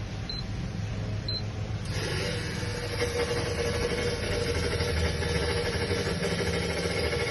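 Two short high beeps, then about two seconds in a machine starts up and keeps running with a steady hum and drone.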